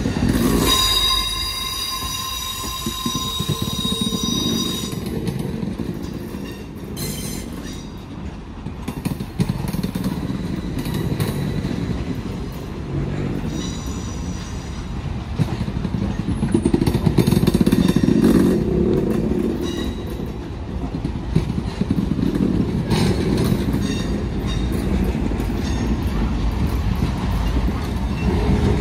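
Passenger coaches and boxcars of a train rolling past at close range. The steel wheels rumble on the rails and click over the joints, with a steady high squeal for the first few seconds.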